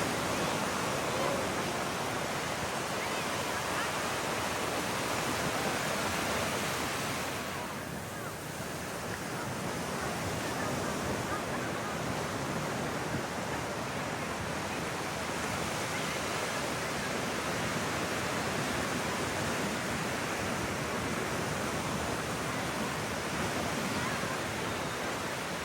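Ocean surf washing onto the beach, a steady rushing noise that eases briefly about eight seconds in.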